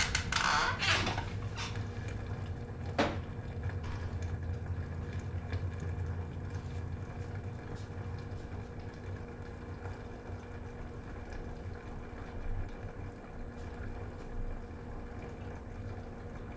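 Liquid dribbling out of a 15.5 gallon beer keg as it drains under gravity through its opened top, with a steady low hum underneath. A louder rush of noise comes in the first second, and there is a sharp click about three seconds in.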